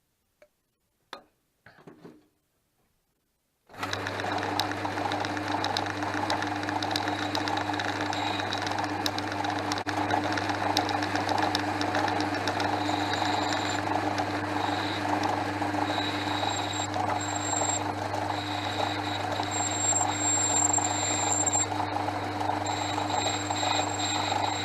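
Portass Model S mk2 metal lathe running steadily with a strong hum, starting abruptly about four seconds in after a few faint clicks, with a thin high whine that comes and goes.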